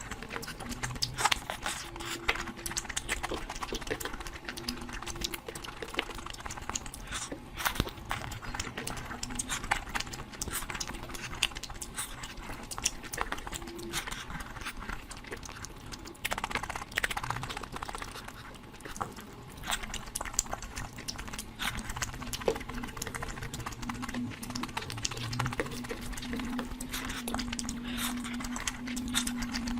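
Loud, wet close-up eating sounds: dense, quick chewing and lip-smacking clicks from people eating spicy curry. A low held tone joins in during the last few seconds.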